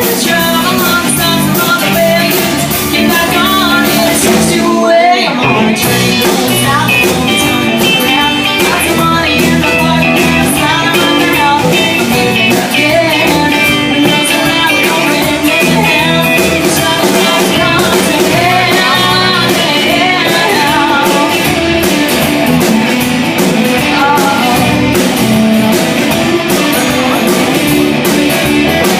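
Live band playing an up-tempo rock-and-roll song with guitar and a woman singing. The band drops out briefly about five seconds in.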